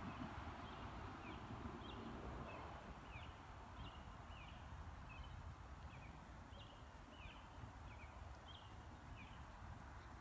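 A small bird calling repeatedly in faint, short, high chirps, about two a second, over low wind rumble on the microphone.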